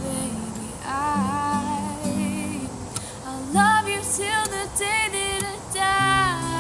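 A pop song playing: a woman singing a melody over a bass line, backing instruments and light percussion hits.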